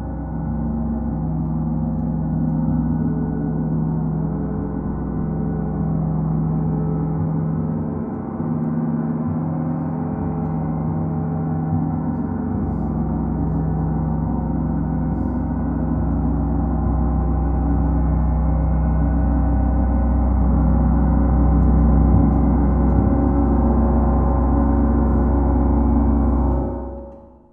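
A gong sounding continuously, a dense shimmering wash of many overlapping tones over a deep hum, slowly building in volume. Near the end it is damped and the sound cuts off quickly.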